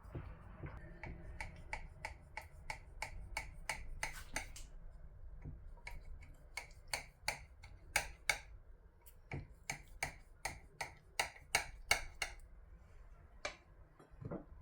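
Regular sharp clicking taps, about three a second, in three runs with short pauses, then a single click and a dull thump near the end.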